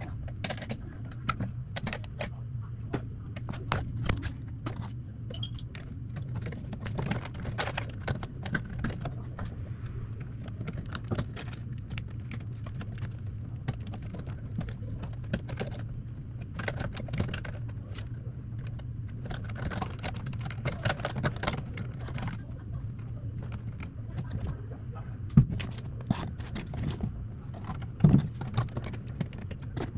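Hands working with tools and metal parts: scattered small clinks, clicks and rattles throughout, over a steady low hum, with two sharper knocks near the end.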